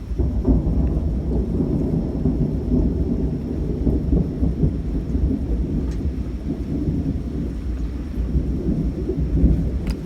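Thunder rolling in one long, continuous low rumble during a severe thunderstorm, swelling about half a second in, with rain falling.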